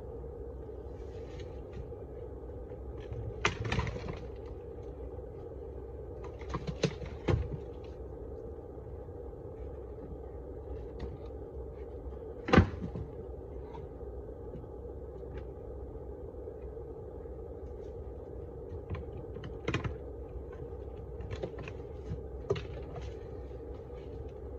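Steady hum of a large honeybee colony. Scattered knocks and clicks cut through it, the loudest about midway.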